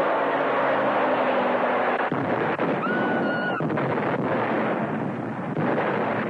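Loud, continuous roar of a blast-triggered avalanche of rock crashing down, a film sound effect. A steady engine hum underneath ends about two seconds in, and a brief high wail rises out of the roar about three seconds in.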